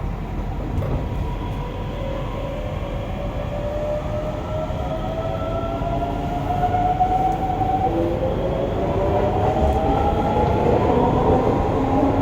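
Hokuso 7300 series train running with its GTO-VVVF inverter whining over a steady rumble from the wheels and track. Several inverter tones rise slowly in pitch and grow louder as the train accelerates, and lower tones join in about two-thirds of the way through.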